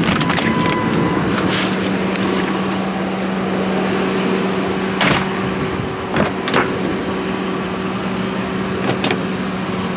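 A car's air-conditioning blower running, an even hiss over a steady low hum. Several short knocks and clicks stand out over it, the clearest about five seconds in, twice about six seconds in, and near the end.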